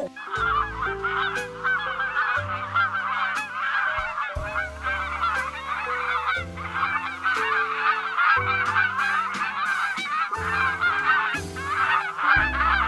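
A large flock of waterfowl honking, many overlapping calls without a break, over background music of low held notes.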